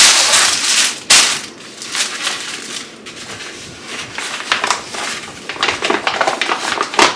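Packaging rustling and crinkling as a three-piece set of collapsible storage baskets is unwrapped. It is dense at first, with a sharp snap about a second in, then irregular crackling handling with another loud crackle near the end.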